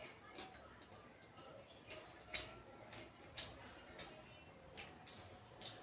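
Mukbang chewing and lip-smacking: a string of short mouth clicks at irregular intervals, about seven in a few seconds.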